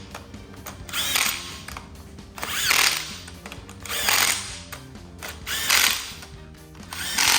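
A cordless power tool run in about five short bursts, spinning bolts down snug before they are torqued. Background music plays underneath.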